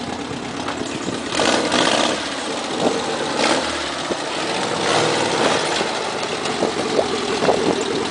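An engine running steadily, with a few short louder surges. It is most likely the engine of a gaiola, a tubular-frame off-road buggy.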